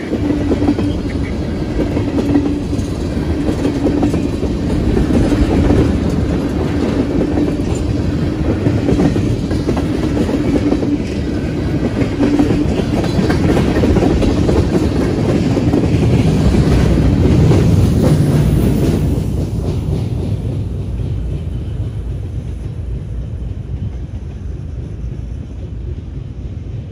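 A freight train of tank cars rolling past close by, its wheels clattering over the rail joints, with a steady low hum under the noise for the first half. The train's end passes, and the noise dies down over the last several seconds.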